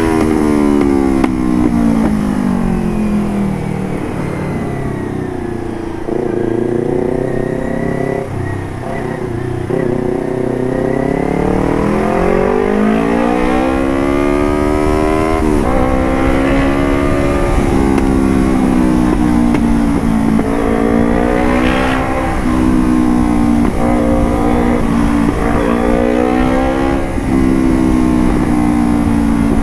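Motorcycle engine through a Puresound DX Generation AR1 carbon aftermarket exhaust, on the move. The note falls as it slows over the first few seconds, climbs again as it accelerates around ten seconds in, then holds fairly steady with several short breaks in the note.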